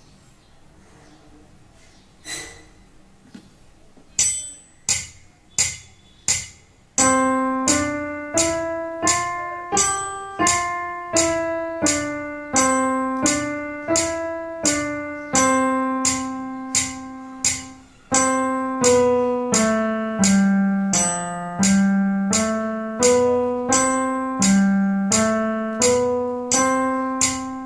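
Electronic keyboard with a steady rhythm beat starting about four seconds in. From about seven seconds in a simple beginner melody steps up and down note by note, one note per beat, with both hands playing together.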